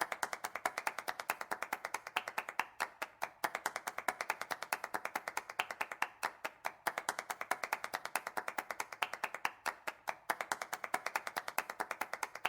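Rapid, even tapping clicks, about eight a second, a percussive rhythm opening an electronic soundtrack.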